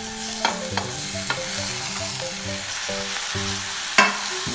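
Chopped tomatoes sizzling as they go into a hot pot of fried cluster beans and oil, with a steel spoon clinking against the metal pot while stirring. There are a few clinks, the sharpest about four seconds in.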